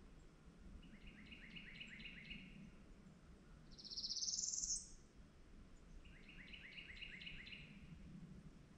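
Forest songbirds singing. A phrase of quick repeated chirps comes twice, and between them a louder rising buzzy trill. A faint low steady background rumble runs underneath.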